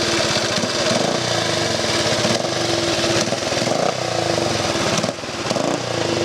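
Vintage motorcycle engine running, with a rapid, even firing beat.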